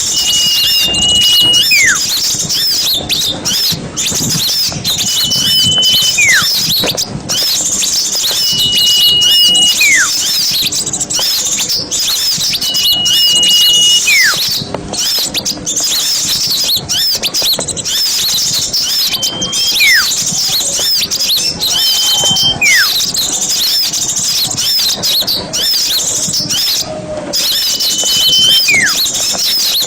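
Bird-lure recording of a crowd of small birds chattering and twittering together, played to draw small birds in. A clear whistled note, held level and then dropping sharply in pitch, repeats about every three to four seconds.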